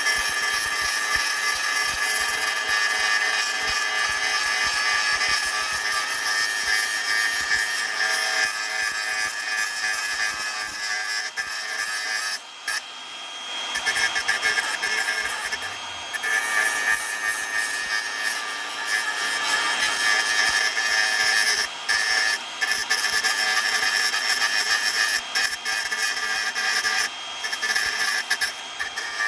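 Handheld power tool running steadily with an abrasive scrubbing sound as it cleans up the microwave transformer's copper for scrap. It lets off briefly a few times, twice about halfway through and twice more later on.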